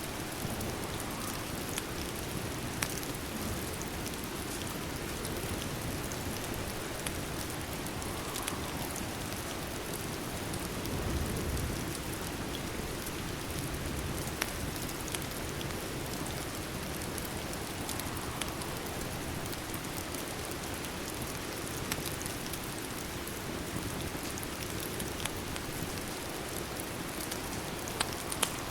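Steady rain falling, an even hiss with a few sharp clicks now and then.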